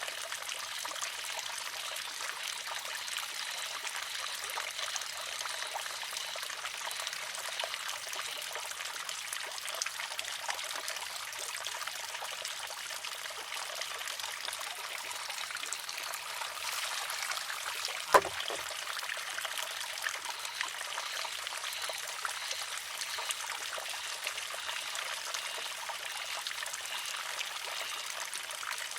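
Water trickling steadily into a wooden shishi-odoshi. About two-thirds of the way through, the filled arm tips, empties and strikes its rock with one sharp wooden clack.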